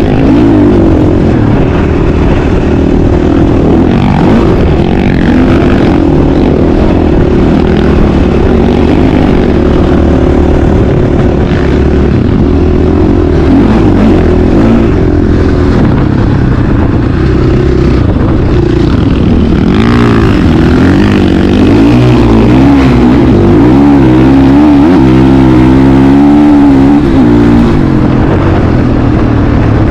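Loud motocross bike engine running under throttle, its pitch rising and falling as it revs, with quick back-and-forth rev changes in the last third.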